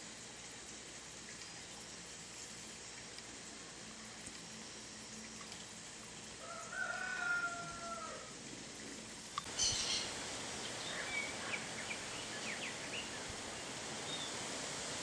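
A single drawn-out bird call of about two seconds, a short note and then a long held note that falls at its end, over a steady background hiss. In the second half come a few short high chirps.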